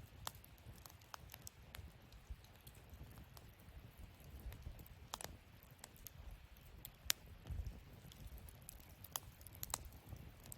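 Wood fire burning in a fire-pit stand, crackling with irregular small pops and one sharper pop about seven seconds in, over a soft low rumble.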